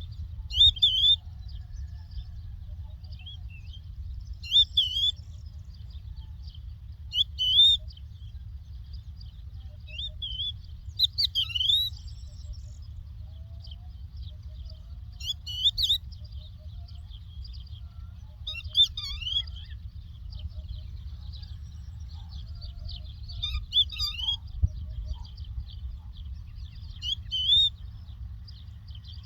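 A lark singing short, warbling chirped phrases repeated every few seconds, over a steady low rumble.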